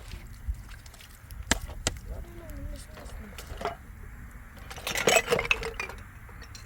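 Pots and dishes clinking and knocking against each other, with a few sharp knocks and a louder, ringing clatter about five seconds in.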